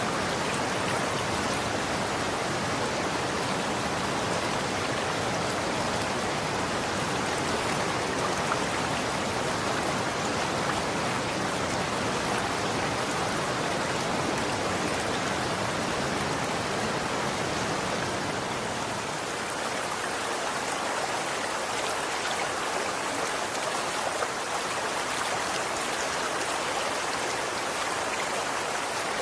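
Running water flowing steadily, an even rushing hiss with no breaks; the low end thins a little about two-thirds of the way through.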